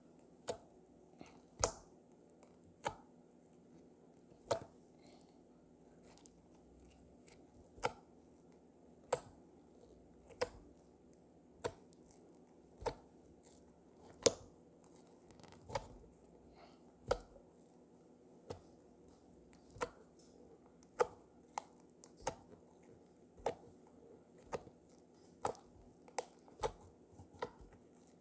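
Slime being played with by hand, giving a run of sharp pops or clicks about once a second, with a pause of a few seconds between them about a fifth of the way in.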